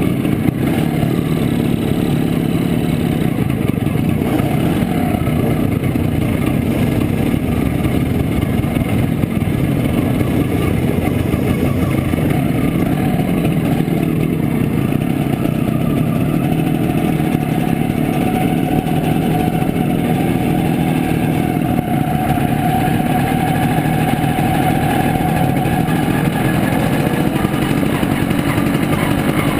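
The two-stroke single-cylinder engine of a 1967 Montesa Impala Comando 175 cc runs steadily under way, heard from on board. Past the middle its note climbs a little and holds.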